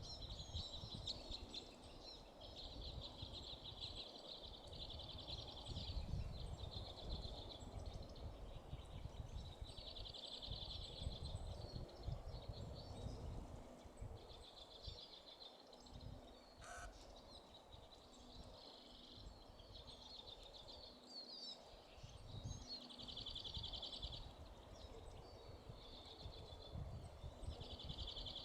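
A small songbird singing short, rapid, high trills, one every two to three seconds, over a low uneven rumble.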